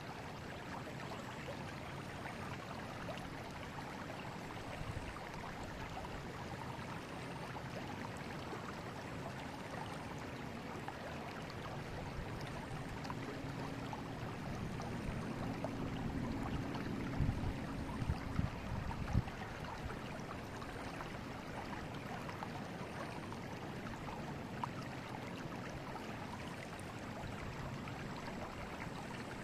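River water flowing steadily over stones in an even rushing wash. A little past the middle a low swell brings a few short, low thumps.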